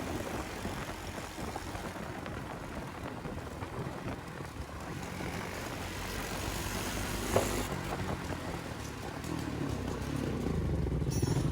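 Motorcycle engine running with road noise: a steady low rumble that grows louder near the end, with one short click about seven seconds in.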